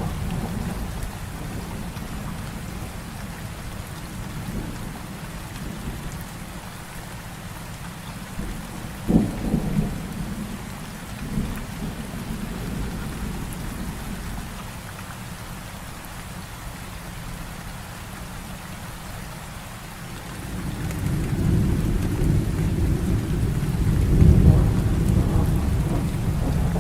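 Heavy rain falling steadily through a thunderstorm. About nine seconds in a close thunderclap cracks sharply with a couple of smaller cracks after it, and from about two-thirds of the way through a deep rumble of thunder swells and rolls, loudest near the end.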